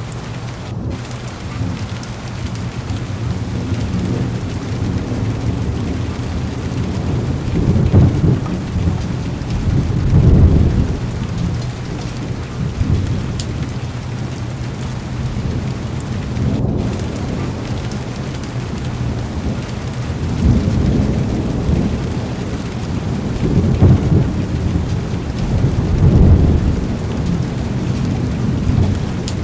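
Heavy rain pounding steadily on a car window, with low rolls of thunder swelling and fading away about five times.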